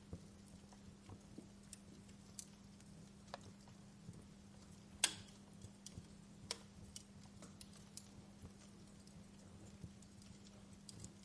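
Wood fire crackling in a fireplace: scattered sharp pops and snaps over a faint steady low hum, the loudest snap about five seconds in.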